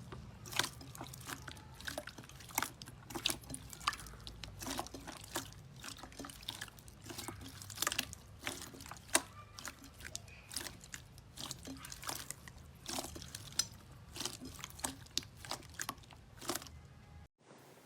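Slime being squeezed and worked by hand, giving a run of irregular sticky, wet clicks and pops, several a second, that stop abruptly near the end.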